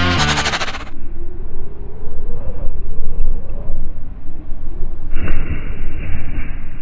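Music cuts off about a second in, then a loud, low rumble of a vehicle being driven hard over rough ground, its engine pitch rising and falling. A brighter rushing noise joins about five seconds in.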